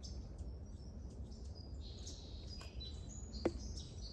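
Small birds chirping with short high calls over a steady low outdoor rumble, with one sharp click about three and a half seconds in.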